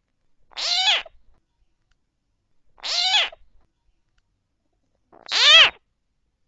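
Recorded coucal (bìm bịp) lure calls: three separate calls, each about half a second long, rising and then falling in pitch, about two and a half seconds apart.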